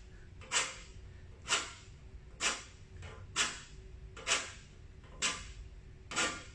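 A gum-tree stick scraped along a metal cheese grater in a steady rhythm, about one rasping stroke a second, seven strokes in all, standing in for the sound of a sasara, the Japanese wooden-slat scraper.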